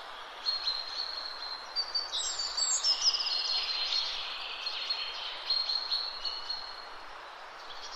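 Small birds chirping and trilling, with a fast run of high notes about two to three seconds in, over a steady outdoor hiss.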